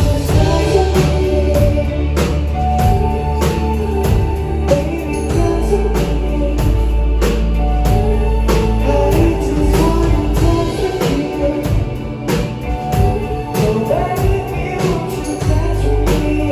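Live band playing a song through a bar's PA: a drum kit keeping a steady beat, bass guitar and guitar, with a singer's voice over them.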